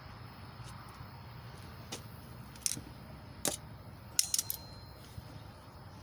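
A few sharp clicks and light clinks: single ones about two, two and a half, and three and a half seconds in, then a quick cluster of three or four just after four seconds, all over a low steady hum.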